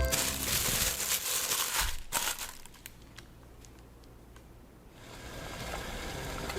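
Crinkling and crumpling handling noise, made of many fine crackles, for about two seconds, then it drops away to quiet; a soft even noise rises again near the end.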